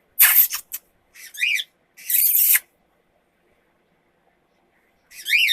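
Pet bird calling: harsh, high screeches near the start and about two seconds in, and quick chirps that rise and fall about a second in and again near the end.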